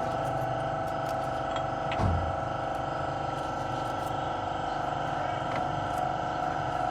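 Steady mechanical hum holding one pitch, with a single knock about two seconds in.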